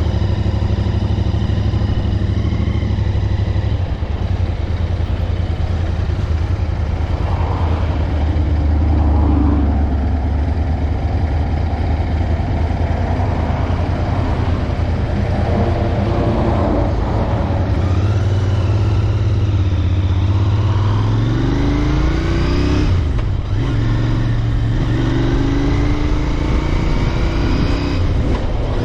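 Royal Enfield Interceptor 650's parallel-twin engine running while riding along at steady speed. About two-thirds of the way through, the engine note rises as the bike accelerates, breaks off briefly, then settles into a steady drone again.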